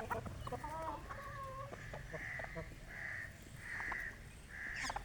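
Chickens calling: wavering calls at first, then four short calls repeated at an even pace.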